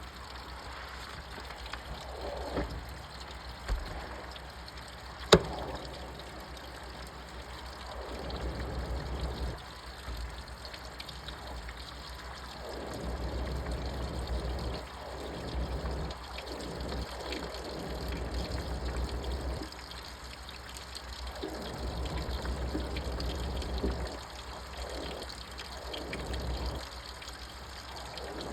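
Washing machine in its wash cycle: water sloshing in swells that come and go every second or two as the drum turns one way and then the other, over a low motor hum. There is a sharp click about five seconds in.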